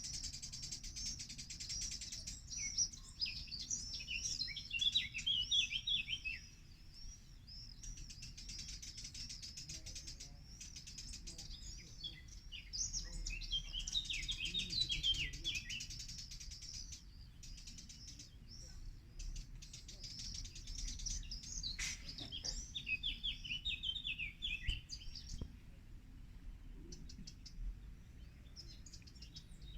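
Songbirds singing and chirping steadily, with a rapid run of song notes coming three times, roughly nine seconds apart, over higher continuous chirping.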